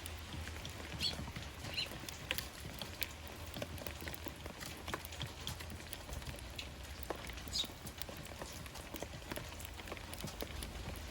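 Eurasian tree sparrows at a feeder: irregular light taps and clicks, with a few short high chirps about a second in and again near eight seconds.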